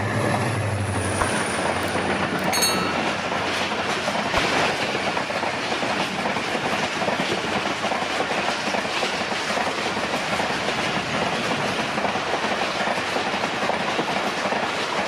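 Diesel-hauled passenger train passing close at speed. The locomotive's engine drone fades about a second in, leaving a steady rush of coach wheels on the rails, with a brief high metallic ring about two and a half seconds in.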